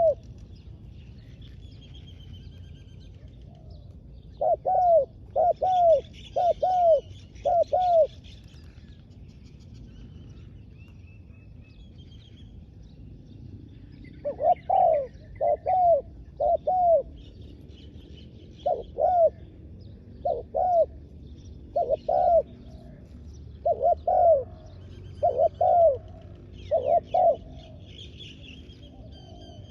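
Spotted dove cooing in repeated phrases of three to five low, arching coos, with pauses of a few seconds between phrases. Smaller birds chirp faintly in the background.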